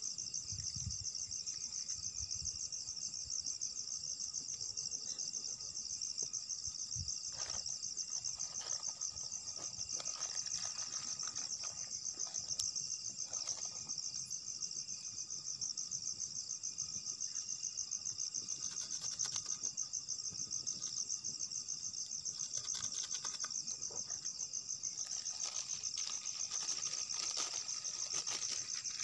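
Steady, high insect chorus in the forest, a dense continuous trill. Occasional faint knocks and rustles come through it.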